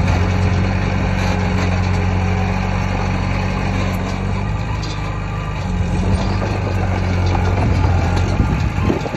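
Heavy diesel engine of earthmoving equipment running steadily with a deep, even hum. The engine note eases briefly about five and a half seconds in, then picks up again.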